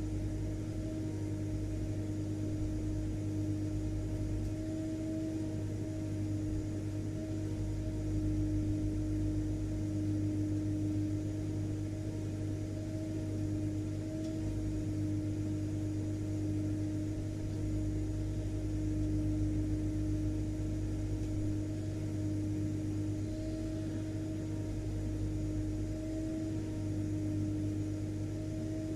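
Vacuum cleaner motor running steadily: a constant whirring hum with a low rumble underneath, unchanging.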